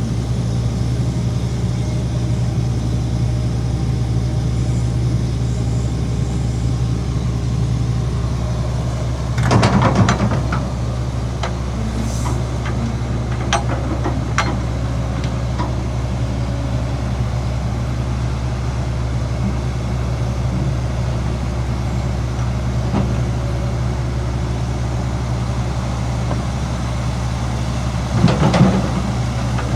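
Heavy diesel engine of earthmoving machinery running steadily at a low, even hum. Two short louder bursts come about ten seconds in and near the end, with a few sharp metallic clicks in between.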